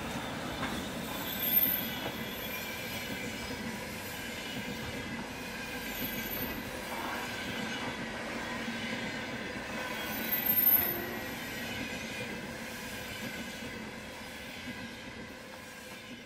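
Passenger train rolling along the track with a steady rumble of wheels on rail. Brief high-pitched wheel squeals cut through it about three times, the loudest near the start and about ten seconds in.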